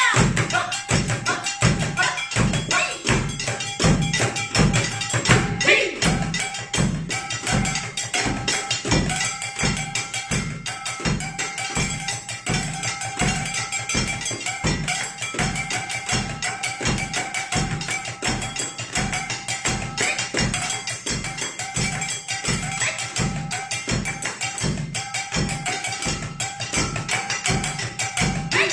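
Japanese taiko drumming in an ensemble piece: a steady, driving pattern of low drum strikes about two to three a second, with quicker, lighter sticking over them and a steady ringing tone underneath.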